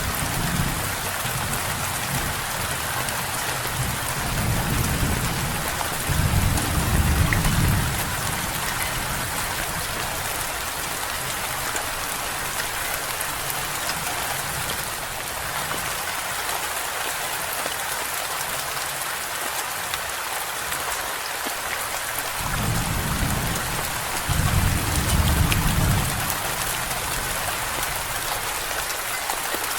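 Steady rain falling, with two low rolls of thunder, one a few seconds in and another near the end, each swelling twice before fading.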